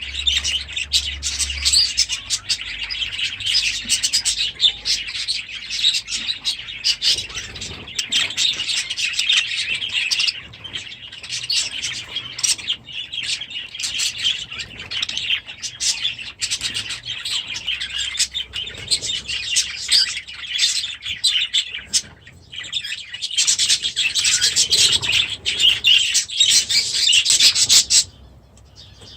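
Many small aviary birds chirping and chattering together in a dense, continuous flock chorus, which breaks off abruptly near the end.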